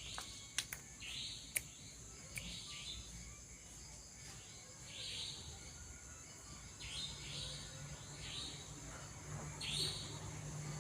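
Short, raspy bird calls repeating every second or so, over a steady high insect drone, with a few sharp clicks in the first two seconds.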